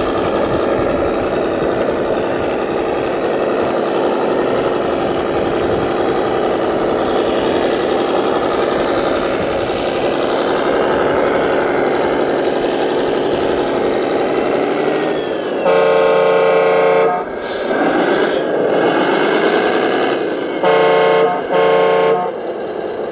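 Radio-controlled model truck running with a steady engine sound. About two-thirds of the way in its horn sounds one long blast, an engine whine rises and falls, and near the end the horn gives two short toots.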